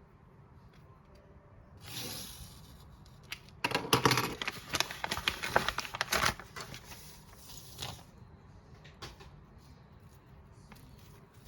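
Album packaging being handled: rustling and crinkling of plastic and paper with quick clicks. It is busiest from about four to six seconds in, with a shorter rustle just before and scattered clicks after.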